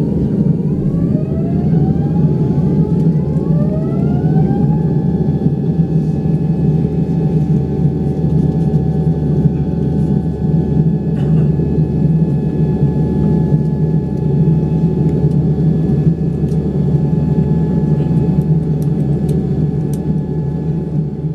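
A Boeing 787-9's Rolls-Royce Trent 1000 turbofan engines spooling up, heard from inside the cabin. A whine rises in pitch over about five seconds and then holds steady over a loud, even rumble as the engines reach high thrust.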